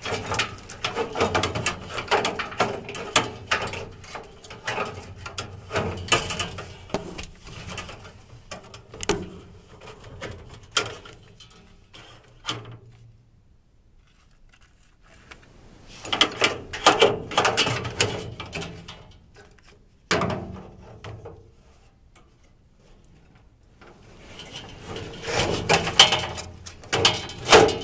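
Washable furnace filter being pushed and wiggled into its vent slot, scraping, clicking and rattling in bursts as it catches and sticks, with two short pauses partway through.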